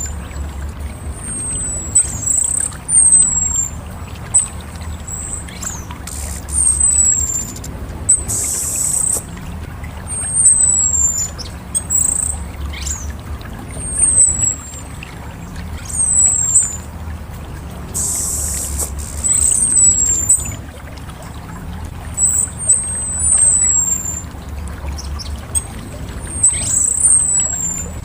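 Orange-headed thrush calling: short, high, downward-sweeping whistles repeated every second or two, with a couple of harsh, hissy bursts about a second long, over a steady low rumble.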